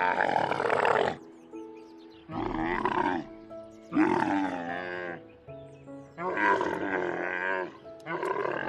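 Dromedary camel calling: about five wavering calls, each about a second long, over calm background music.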